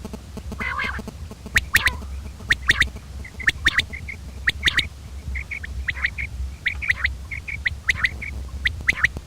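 Common quail calling: a string of sharp, clipped notes about a second apart, most in quick pairs, with softer notes between them.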